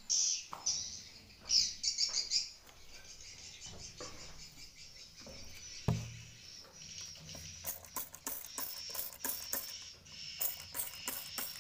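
Swiftlets twittering in short bursts, with rapid sharp clicking calls that grow denser in the second half. A single dull thump about halfway through.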